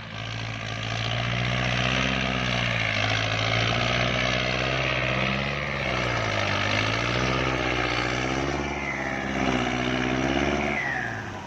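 Kubota tractor's diesel engine running under heavy load in deep mud, its pitch sagging and recovering about three times as it lugs: the tractor is bogging down and close to getting stuck.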